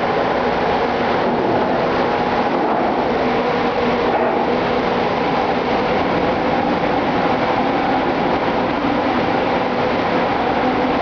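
Ship's engine-room machinery running: a loud, steady din of diesel engines with a constant multi-toned hum.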